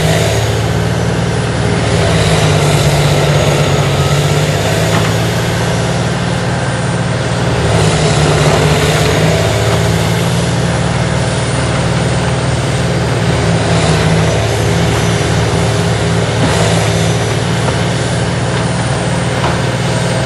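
Large diesel-powered tracked horizontal grinder running hard while it grinds up burnt trees and stumps into chips. It makes a loud, dense, steady din over a deep engine note, swelling and easing every few seconds as the load changes.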